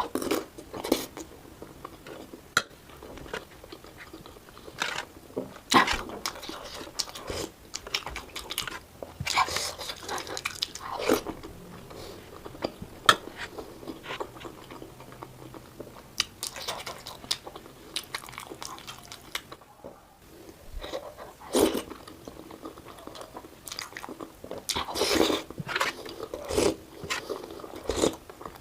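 Close-miked biting and chewing of momo dumplings, played at double speed: irregular wet smacks and crunchy bites, with a brief gap about twenty seconds in.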